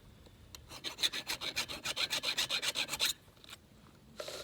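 Hand file rasping across the cutters of a new Husqvarna X-Cut chainsaw chain in a quick, even run of short strokes, about seven a second, stopping sharply a little past three seconds in.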